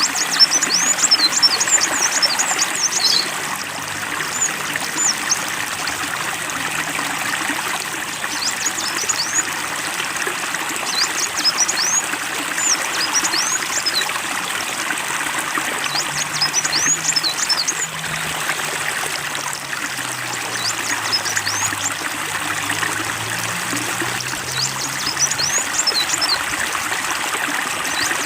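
Steady running water of a trickling stream, with a songbird repeating quick clusters of high, sharp chirps every few seconds over it.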